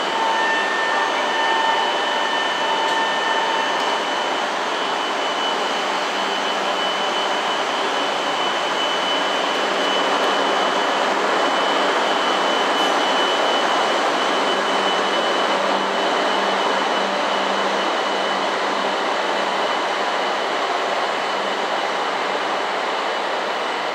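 E7 series Shinkansen departing and gathering speed past the platform: a steady rush and rumble of the cars rolling by, with a steady high-pitched tone above it.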